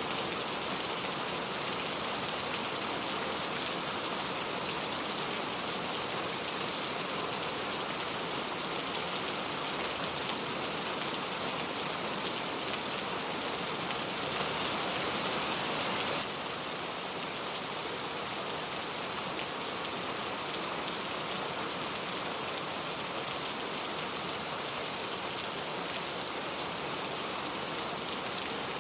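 Steady rain falling, a continuous even hiss with no thunder; it swells a little and then drops slightly and suddenly about sixteen seconds in.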